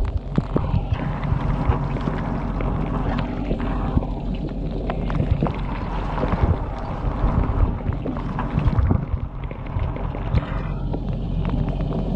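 Inside a running dishwasher: water spray from the spray arms pelting the dishes and the waterproof camera housing over a steady pump hum, with frequent sharp knocks and clatters.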